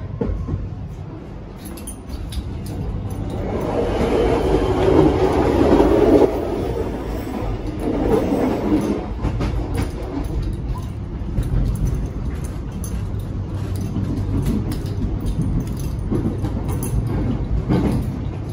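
Alstom X'Trapolis electric train under way, heard from inside the carriage: a steady rumble of wheels on the track that swells louder from about four to six seconds in, drops back suddenly, then runs on evenly.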